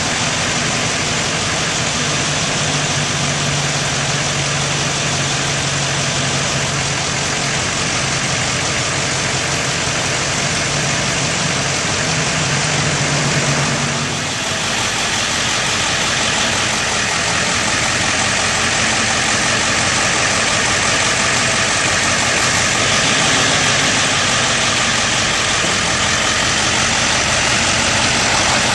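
Bucket truck's engine running steadily, with a brief dip and a change in tone about halfway through.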